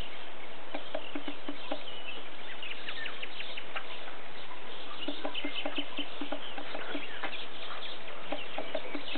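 Birds calling in quick runs of short repeated notes over a steady background hiss.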